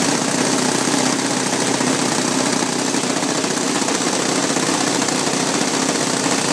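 Saito 72 four-stroke glow engines on a TopFlite B-25 Mitchell RC model running at a steady speed during break-in, with a rapid, even firing beat.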